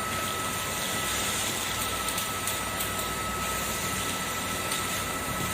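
Kärcher vacuum cleaner running steadily: an even rushing of air with a constant high motor whine, and a few faint clicks in the middle.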